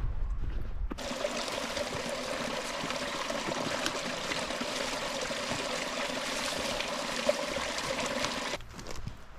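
Running river water: a steady rush that cuts in abruptly about a second in and cuts off suddenly near the end.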